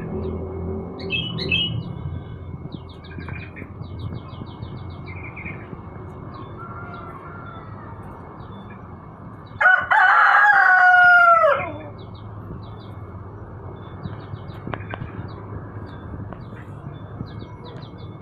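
A rooster crows once, loudly, about ten seconds in, the call ending in a falling glide. Small birds chirp and trill faintly throughout.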